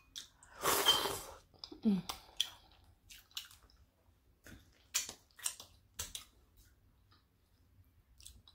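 Someone chewing and eating, with scattered sharp clicks and a louder noisy burst about a second in.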